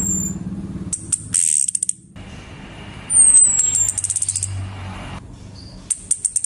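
Female orange-headed thrush calling: short bursts of rapid, high metallic ticking notes and a thin whistle that slides down in pitch, repeated several times.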